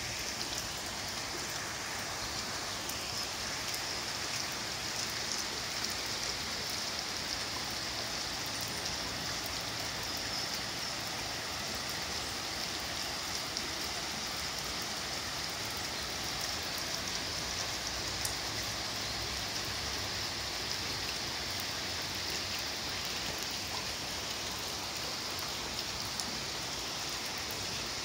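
Steady rain falling, an even hiss that holds at one level, with faint scattered ticks of individual drops.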